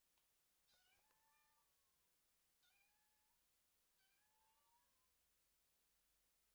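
Very faint domestic cat meowing, three drawn-out meows each rising and then falling in pitch, with a couple of faint clicks just before the first.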